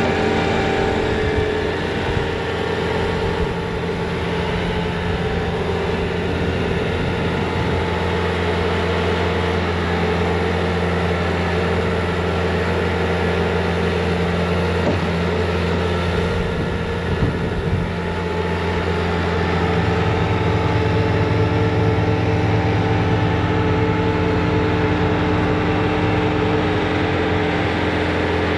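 Bobcat T66 track loader's diesel engine running steadily at working speed while driving its snowblower attachment, dipping briefly a couple of times and rising a little past the middle.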